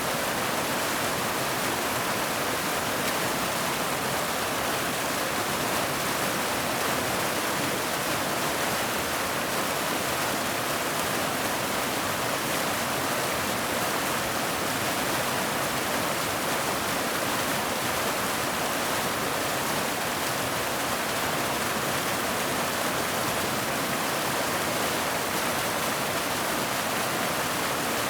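Waterfall: water pouring and splashing in a steady, even rush, with no change throughout.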